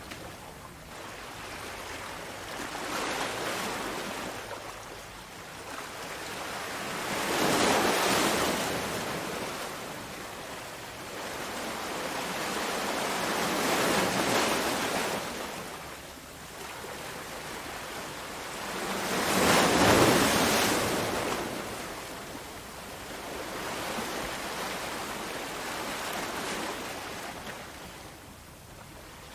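Sea waves breaking on a shore, the surf swelling and receding in slow surges every six seconds or so, the loudest crash about two-thirds of the way through.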